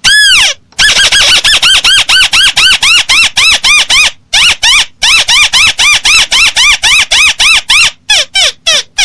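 Recorded lure call of a crake (burung tikusan) played back loud: a fast series of clear, arched notes that rise and fall, about five a second, with brief breaks about half a second in, around four seconds in and near eight seconds in.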